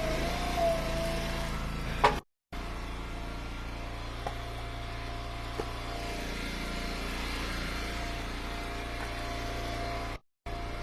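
Small gas engine of a hydraulic log splitter running steadily, with a sharp knock about two seconds in. The sound cuts out completely twice for a moment.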